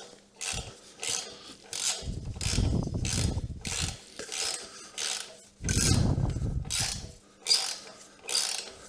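Hand socket ratchet being worked back and forth, clicking in short strokes about twice a second, while unbolting a motorcycle crash bar; twice a low rumble of handling noise joins in.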